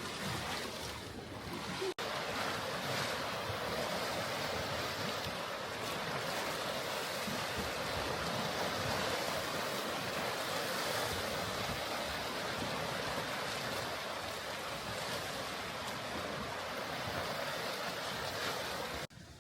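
Lake Michigan waves washing against the rocky, ice-lined shore: a steady rushing surf, with a brief break about two seconds in and an abrupt drop near the end.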